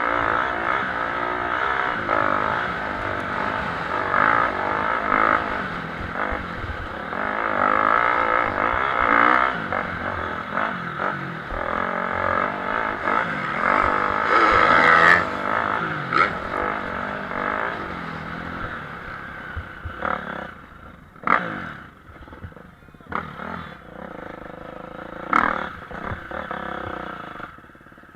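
Motocross bikes racing, their engines revving up and down through the gears. After about twenty seconds they fade into the distance, leaving a few sharp knocks.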